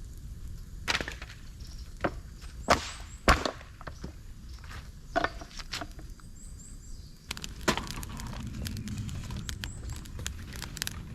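Dry bamboo and sticks cracking and snapping: about half a dozen sharp, separate cracks, then a steadier low rustle from about seven seconds in.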